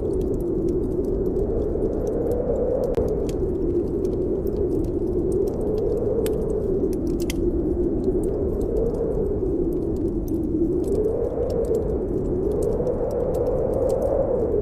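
Snowstorm wind howling as a low moan that swells and sinks every few seconds, with the small sharp pops and crackles of a wood fire in a fireplace over it.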